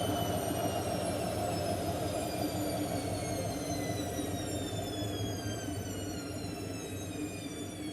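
Hotpoint Aquarius WML540 washing machine slowing down from a spin: the motor's whine falls steadily in pitch as the drum slows, over a low rumble that gradually eases.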